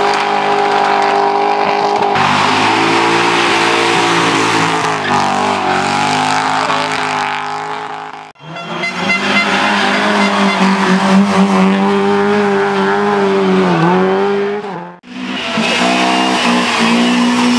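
Drift cars' engines held at high revs, the pitch wavering up and down, with tyre squeal. The sound cuts out abruptly twice, about eight and fifteen seconds in.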